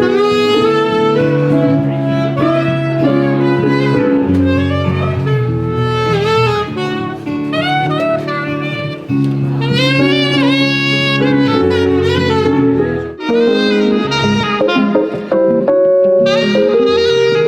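Saxophone playing a smooth-jazz melody with vibrato over a backing track of sustained bass notes and chords.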